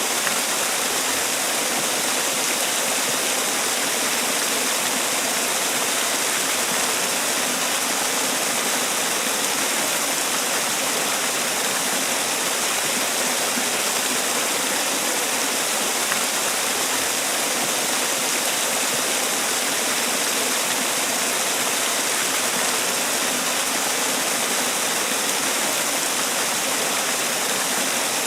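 Man-made waterfall: water falling and splashing in a steady, even rush with no breaks.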